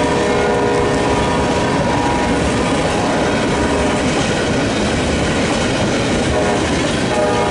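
Empty tank cars of a CSX freight train rolling past, a steady rumble of wheels on rail. Faint high wheel squeal fades after about two seconds and comes back near the end.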